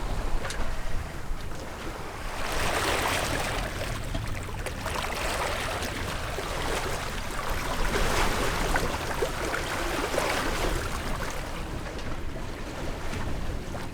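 Water rushing along a sailboat's hull, rising and falling in surges, with wind rumbling on the microphone.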